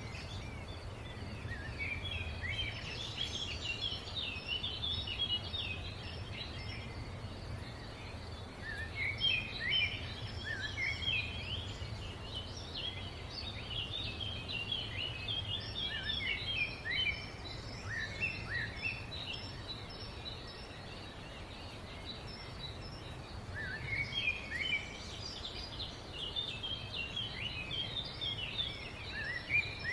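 Several small birds chirping in busy, overlapping bouts of short rising and falling notes, with a quieter spell about two-thirds of the way through, over a steady low background rumble.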